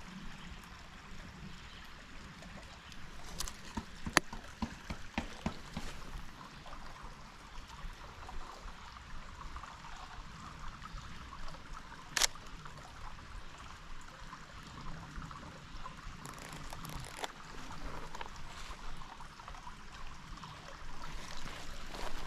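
Steady soft rushing of trickling water, with a few sharp clicks, the loudest about 12 seconds in.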